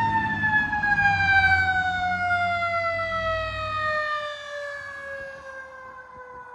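Fire apparatus siren winding down in one long, slowly falling tone as the fire truck drives past, with the truck's low engine rumble fading out about four seconds in.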